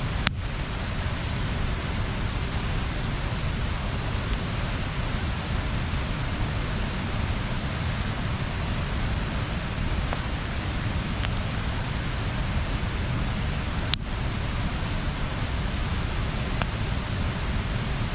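Bonfire burning with a steady rushing hiss, broken by a few sharp pops of the burning wood; the clearest comes about fourteen seconds in.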